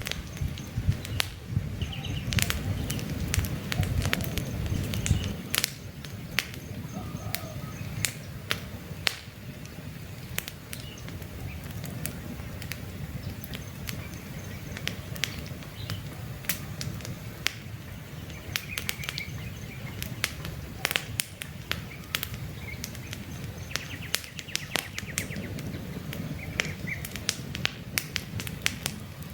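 Wood campfire crackling, with frequent sharp irregular pops over a steady hiss, and a low rumble in the first five seconds and again near the end. A few faint bird chirps come through now and then.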